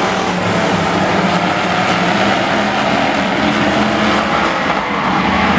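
Demolition trucks' engines running hard in a race: a loud, steady din of several engines overlapping.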